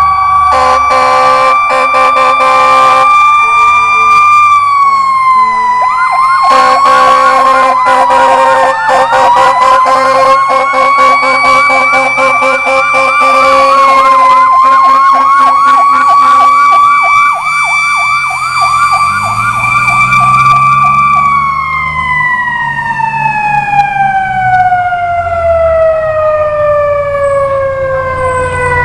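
Fire engine and rescue truck sirens passing: a steady siren wail with a fast warbling yelp laid over it from about six seconds in until about seventeen seconds, and short horn blasts in the first few seconds. Near the end the wail falls steadily in pitch as it winds down.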